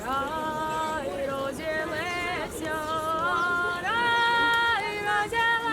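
A child singing a song unaccompanied, in a high voice, holding long notes and sliding between them.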